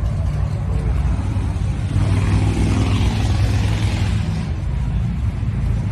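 Car engine and exhaust rumbling, growing louder about two seconds in and easing off about two seconds later.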